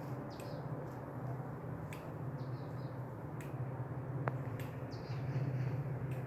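Small birds giving a few short, high chirps, about three times, over a steady low hum. A single sharp click a little after the middle.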